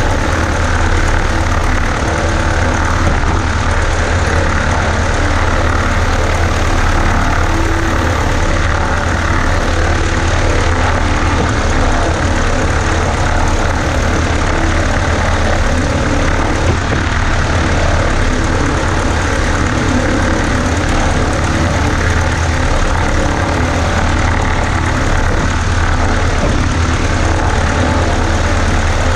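Cessna 140A's piston engine and propeller running steadily and loud, without change in speed.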